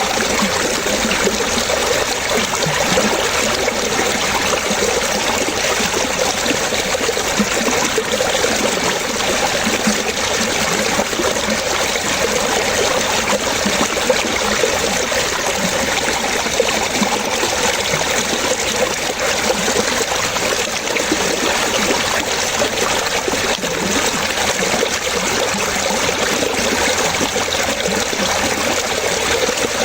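Running water trickling and splashing steadily, with no pauses or changes.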